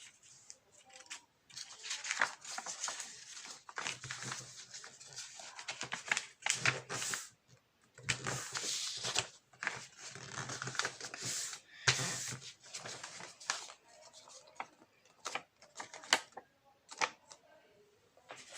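A sheet of paper being handled, folded and creased by hand: irregular rustling and crinkling with sharp scraping strokes, louder in several stretches.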